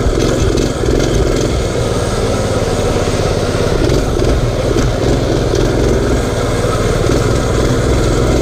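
Mini bike's small engine running steadily while being ridden.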